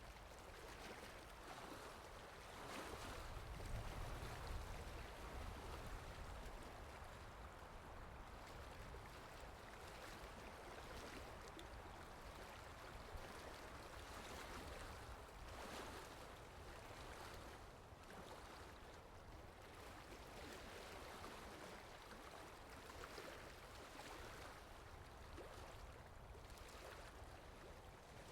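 Soft, steady rain falling in a forest, faint and even, with a low rumble swelling about three to five seconds in.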